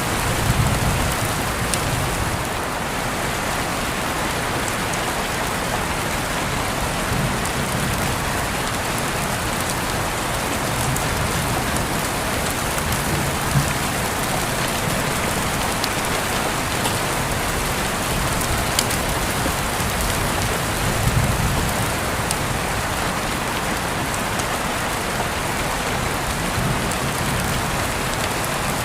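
Steady heavy rain falling and pattering on surfaces, with a few brief low rumbles near the start and about two-thirds of the way through.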